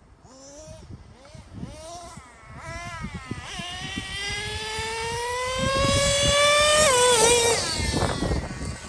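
Nitro two-stroke engine of a Traxxas Revo 3.3 RC truck, blipped up and down a few times, then held on throttle in a long run with its whine rising steadily in pitch and getting louder before falling away about seven seconds in.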